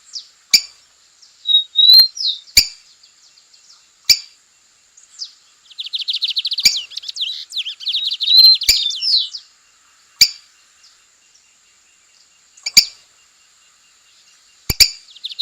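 Lined seedeater (bigodinho) singing: short high chirps and slurred whistled notes, then a long fast rattling trill in the middle, with another trill starting near the end. Sharp clicks come every couple of seconds throughout.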